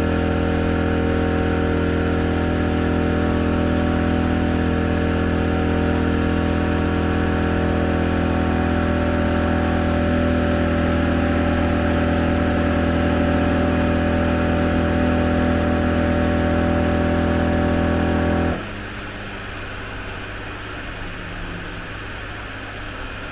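Morrflate air compressor running steadily with a strong hum while inflating a tire, then cutting off suddenly about 18 seconds in as it reaches its set pressure of 40 psi. A lower steady hum remains after it stops.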